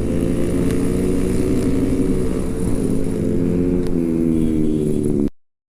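Motorcycle engine and loud exhaust running at a steady cruising throttle, its pitch holding nearly constant. It cuts off abruptly near the end.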